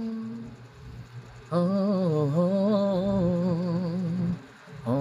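A singer humming the closing melody of the song, with vibrato. A held note fades out about half a second in. A long, wavering hummed note starts about a second and a half in and lasts some three seconds, and a shorter one begins near the end.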